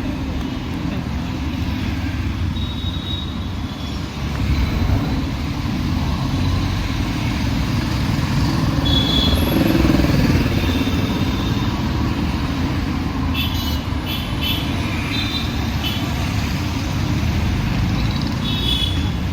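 Busy city street traffic: a steady mix of motorcycle, car and larger vehicle engines and tyres, swelling as a vehicle passes close about ten seconds in. A few short high-pitched tones cut through in the second half.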